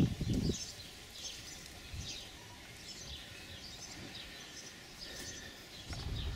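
Small birds chirping repeatedly in the background, short high calls about every second, over faint outdoor ambience, with a brief low rumble at the very start.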